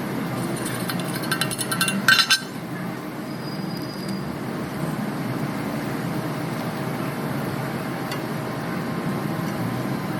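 Metal hand tools clinking against metal, with a few light clinks early and a quick, louder cluster about two seconds in. A steady low rumble runs underneath.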